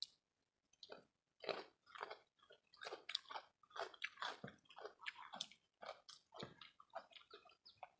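People chewing and biting food close to the microphone: quiet, irregular mouth sounds, several a second.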